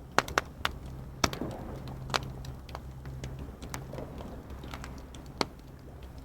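Wood fire crackling, with several loud sharp pops: two in quick succession just after the start, then about a second in, at two seconds, and near the end, over a low steady rumble.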